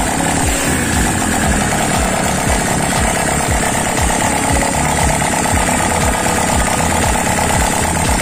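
Custom two-cylinder engine built into a Honda Supra motorcycle, idling steadily with a regular low pulse several times a second.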